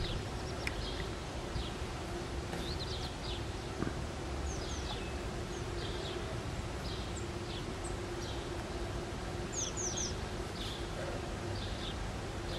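Birds chirping outdoors: short, high calls come singly and in quick little clusters throughout. Beneath them runs a steady low hum over a constant background hiss.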